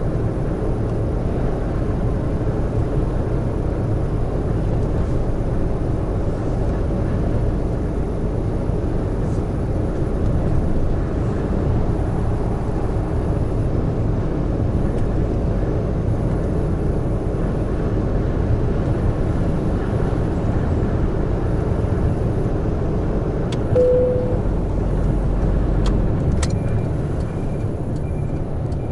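Large truck driving on an expressway: steady engine and road noise throughout, with a short beep and a few sharp clicks near the end.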